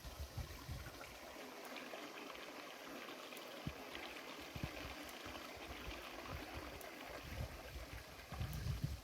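Running water, a steady trickling, splashing flow, with a few faint clicks and some low rumbles near the end.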